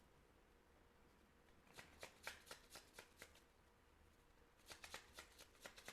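Tarot cards being shuffled, heard faintly as two short runs of quick clicks: one about two seconds in, another near the end.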